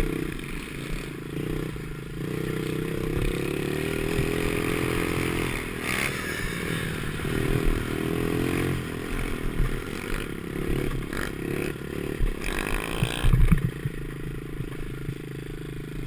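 Ten10 50cc pit bike engine revving up and down as the bike is ridden over a motocross track, with scraping and clattering from the bike over the bumps and a cluster of loud knocks about thirteen seconds in.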